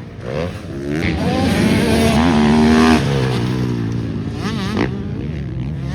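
Motocross dirt bike engines racing past, revving up and down through the gears, with the pitch rising and holding, then dropping about halfway through.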